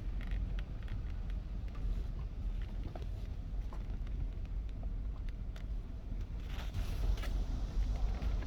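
Low steady rumble of a vehicle running, with wind on the microphone and a few light knocks; a burst of hiss about two-thirds of the way through.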